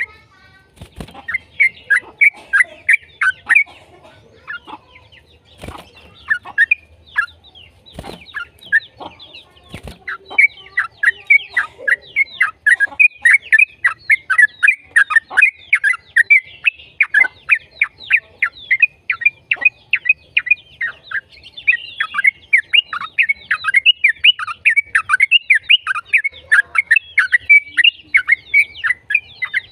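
Yellow-vented bulbul (trucukan) singing a fast, chattering song of quick down-slurred notes. It is sparse at first, with a few sharp knocks, then runs on in a long unbroken rapid burst from about a third of the way in.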